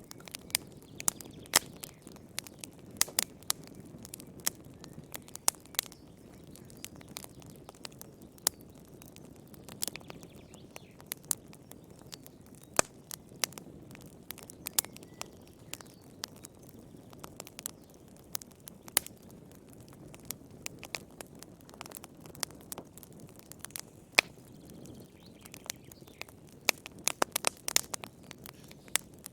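Wood fire burning in a fireplace, crackling: irregular sharp pops and snaps over a soft low rustle of flame, with a quick run of pops near the end.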